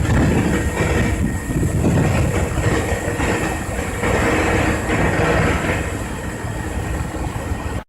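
Loud continuous rumble and hiss with a few faint steady tones, cutting off abruptly at the very end.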